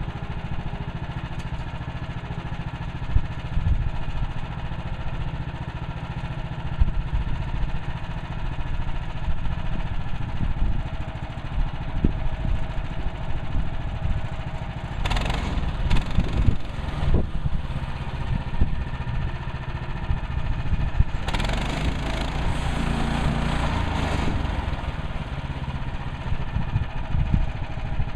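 Woodland Mills HM130MAX portable band sawmill running, its gas engine holding a steady drone. About halfway through, and again for several seconds later on, a louder rushing noise rides over the engine.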